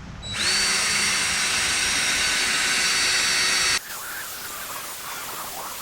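Power drill spinning a 3M gold sanding disc against a plastic headlight lens: a steady high whine over an abrasive hiss. It spins up quickly at the start and cuts off sharply a little under four seconds in.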